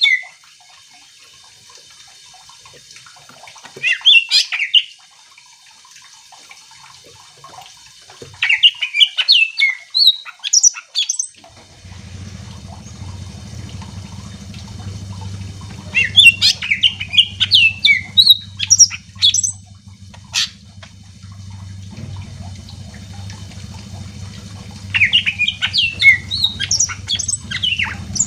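Green leafbird (cucak ijo) singing in four bursts a few seconds apart, each a fast run of high notes sweeping up and down. From about twelve seconds in, a steady low hum runs under the song.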